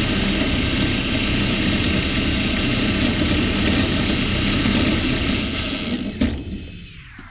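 Motor-driven winch lowering poultry-house feed lines, a steady mechanical running sound that stops with a clunk about six seconds in.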